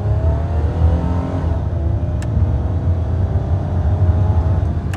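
Inside the cabin, a 1999 Dodge Intrepid's 2.7-litre DOHC V6 accelerating: the engine pitch climbs, drops at an upshift about a second and a half in, then climbs steadily again, over a low road rumble.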